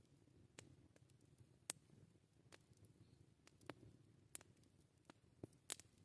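Wood campfire crackling: faint, irregular sharp pops, about eight of them, the loudest a little under two seconds in, over a soft low rumble.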